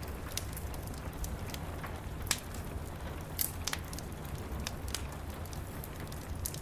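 A wood fire crackling, with scattered sharp pops, the loudest about two seconds in, over a steady hiss and rumble of rain.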